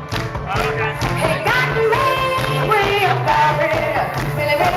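Live band playing a song, a bass line repeating under a shifting melody.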